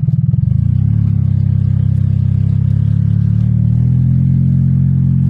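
Golf cart's engine running under way, a low, even drone that lifts slightly in pitch about halfway through.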